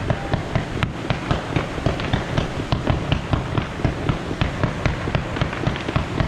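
Fireworks going off in rapid succession: a continuous run of overlapping bangs and cracks, several a second.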